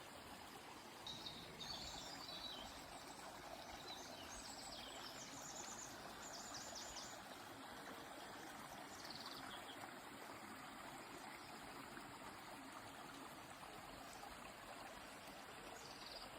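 A stream flowing steadily, with songbirds chirping over it several times in the first part, including a quick run of repeated high notes a few seconds in.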